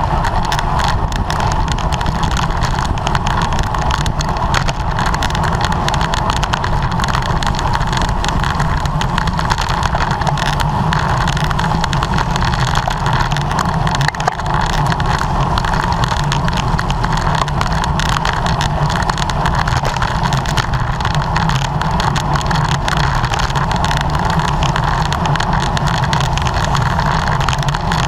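Steady wind rush over the microphone of a camera on a racing bicycle at speed, mixed with tyre and road noise.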